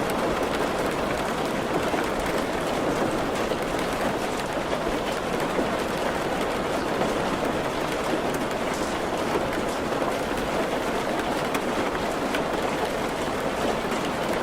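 Steady rainfall: an even, unbroken hiss of rain, with a few faint sharp drop ticks here and there.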